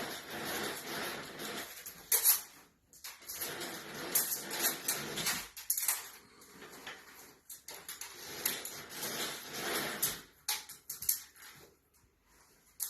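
Irregular rustling and scraping handling noises with a few sharp knocks, one about two seconds in and one near the end.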